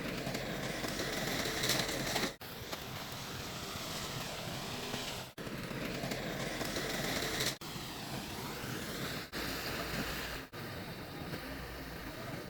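Heavy earth-moving machinery running: steady engine noise with a hiss, broken by abrupt cuts every two to three seconds as short clips follow one another.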